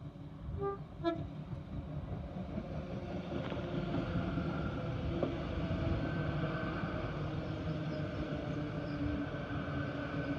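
Great Western Railway Hitachi Intercity Express Train gives two short horn notes about a second in. It then runs past with a steady rumble and hum that grows louder as it comes close.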